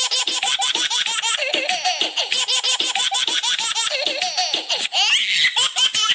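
High-pitched child's laughter in quick, unbroken peals, laid over the picture as a laugh-track effect. The laughter runs on across the cut between clips, and a brief rising squeal comes about five seconds in.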